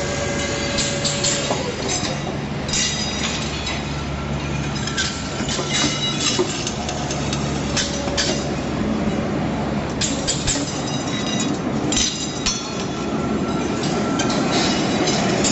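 Automatic steel-ring welding machinery running steadily, with repeated metallic clicks and clinks as the rings are handled and welded.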